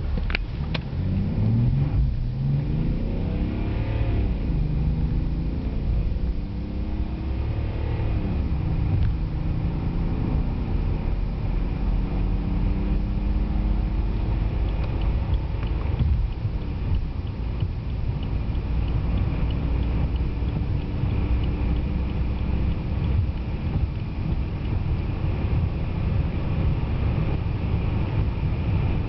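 BMW 730d E65's 3.0-litre straight-six turbodiesel accelerating hard at full throttle through the automatic's gears: the engine note rises and drops back at quick upshifts about four and eight seconds in, then climbs more slowly through the longer gears, over a steady low rumble.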